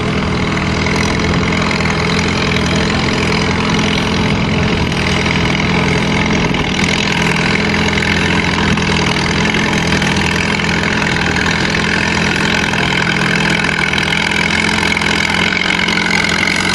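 Antique tractor engine running steadily at an even pitch.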